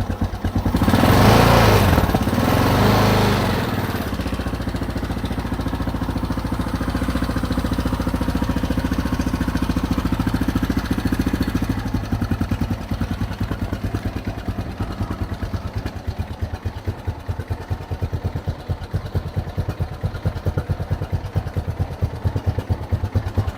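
Single-cylinder engine of a 1991 Yamaha XTZ 660 Teneré running cold at about 0 °C through a stainless steel Marving exhaust, with its idle a little low. There is a steady fast exhaust pulse, and it gets louder for a couple of seconds about a second in.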